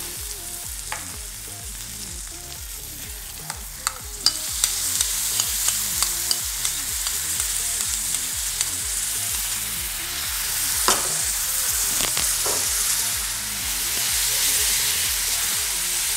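Onions and ginger-garlic paste sizzling in hot oil in an iron kadai. About four seconds in the frying grows louder, with a run of sharp crackling pops as tomato puree goes into the oil. Later come a couple of knocks from a spatula against the pan.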